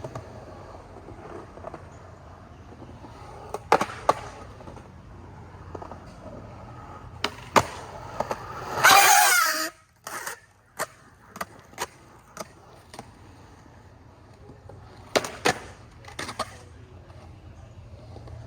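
Skateboard rolling on concrete with sharp clacks of the board's deck and wheels hitting the ground as shove-it tricks are tried, several in quick succession. A loud rushing burst about nine seconds in.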